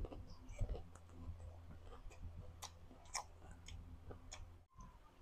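Close-miked mouth chewing a piece of fruit: faint, scattered wet clicks and smacks over a low steady hum, with a brief dropout near the end.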